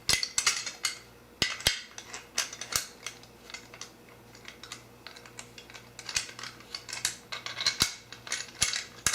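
Irregular metallic clicks and taps of a 1/2-inch nut driver working the bolts on a corner bracket's connectors, loosening them.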